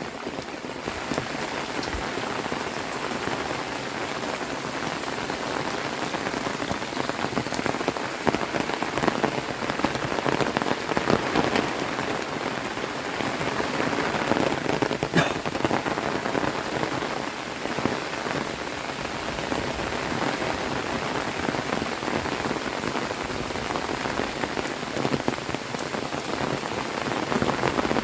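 Heavy rain falling steadily, a dense hiss of countless drops striking surfaces. One sharper tap stands out about halfway through.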